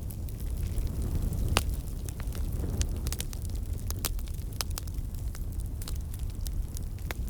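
Wood fire crackling in a fireplace: irregular sharp pops and snaps over a low, steady rumble of flames, with one louder pop about a second and a half in.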